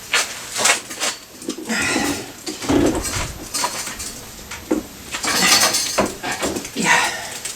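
Irregular metal clanks, knocks and scrapes as a motorcycle engine is manhandled and levered against the frame, mixed with a few strained grunts of effort.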